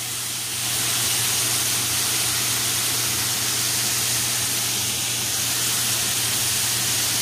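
Marinated chicken pieces sizzling steadily as they fry in a hot skillet, an even hiss.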